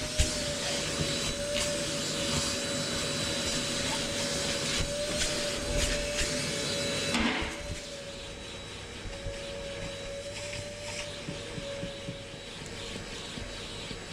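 Vacuum cleaner running with a steady whine and hiss. About halfway through the hiss drops away and the sound gets quieter, while the motor's whine carries on.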